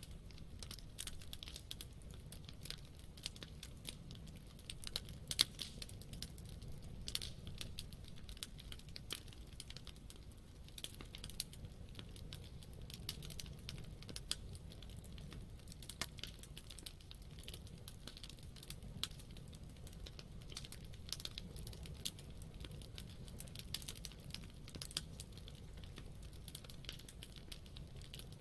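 Wood campfire crackling steadily, with irregular sharp pops and snaps over a low, steady rumble of the flames.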